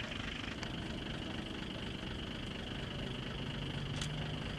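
A vehicle engine running steadily, with a low hum growing stronger about three seconds in.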